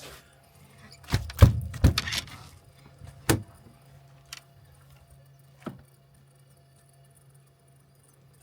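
A quick run of heavy thumps and knocks, then single knocks spread over the next few seconds, over a steady low hum.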